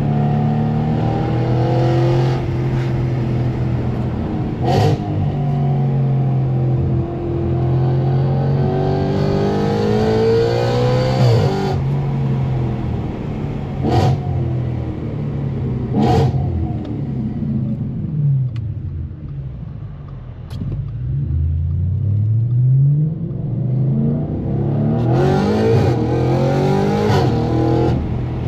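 Straight-piped Audi RS5's naturally aspirated 4.2-litre V8 under hard acceleration, its pitch climbing and dropping back as it shifts up, with four sharp cracks at the gear changes. About two-thirds of the way in it eases off with the pitch falling, then climbs again near the end.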